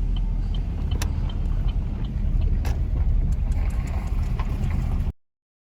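Car driving slowly with a steady low engine and road rumble. A light, regular ticking about two and a half times a second stops about a second in, and a few sharp knocks follow. The sound cuts off suddenly about five seconds in.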